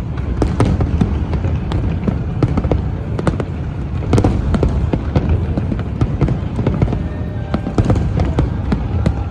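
Fireworks display going off: a rapid, continuous run of bangs and crackling bursts over a steady low rumble.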